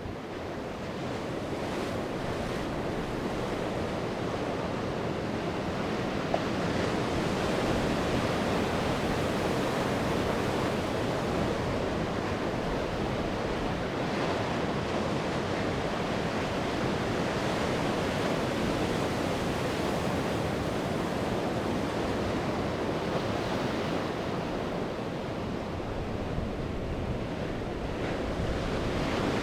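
Sea waves breaking and washing onto the shore in a steady surf, swelling and easing slowly, with some wind.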